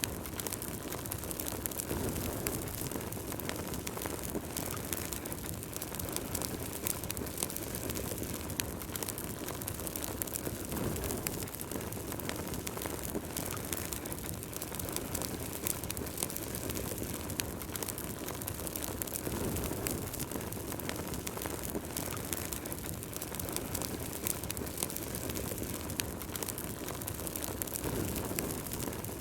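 Wood fire burning in a fireplace: many small crackles and pops scattered irregularly over a steady low rush of flames.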